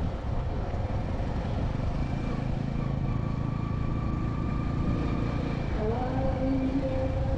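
Road traffic: vehicle and motorcycle engines running and passing over a steady rumble, with one engine's pitch rising about six seconds in.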